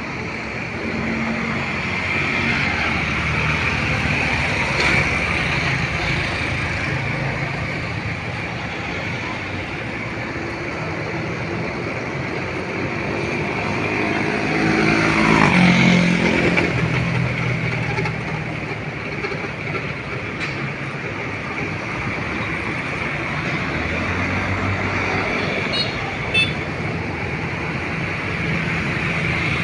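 Road traffic: a steady wash of passing cars and motorcycles, with one vehicle passing close about halfway through, its engine note falling in pitch as it goes by. A short high beep sounds near the end.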